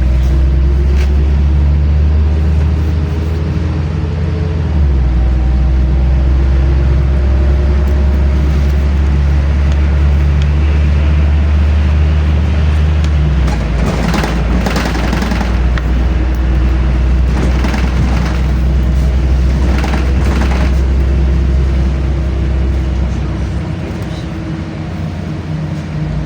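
LiAZ-5292.65 city bus engine running under way, heard from inside the passenger cabin. The engine note shifts in steps about 5 and 13 seconds in, as with gear changes, and eases off near the end. Rattles and knocks from the bus body come through the middle stretch.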